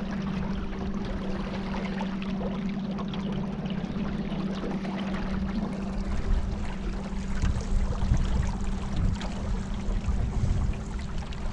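A boat's motor running at a steady pitch, with water rushing and splashing past the hull.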